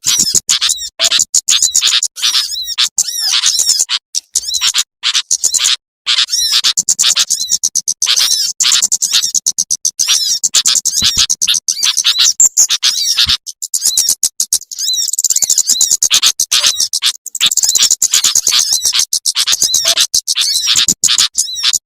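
Recorded calls of small songbirds, among them sunbirds, played as a bird-lure track: dense, rapid, high chirps and trills in quick runs, broken by short abrupt gaps where the recording is cut or looped.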